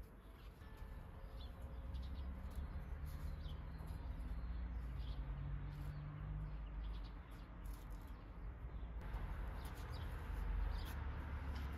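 Small birds chirping in short, scattered calls over a steady low rumble of outdoor background noise. A broader rushing noise swells about nine seconds in.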